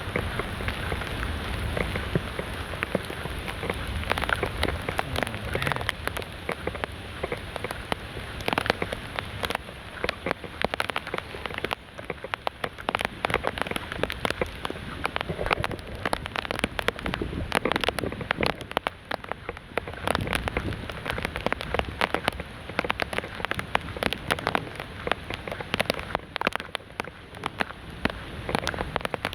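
Heavy tropical rain pouring down, with many individual drops striking close to the microphone as sharp ticks over a steady hiss.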